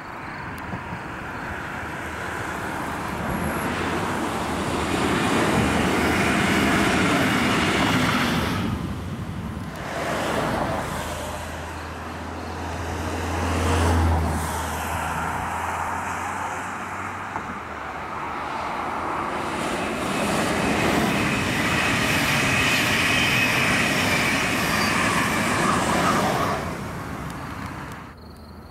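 Two electric trains passing one after another, with the steady rushing rumble of wheels on rail swelling and fading. First comes a class 146 electric locomotive with red double-deck regional coaches, which breaks off abruptly. Then a class 101 electric locomotive with Intercity coaches passes, with a low hum strongest about halfway through, before the sound drops away near the end.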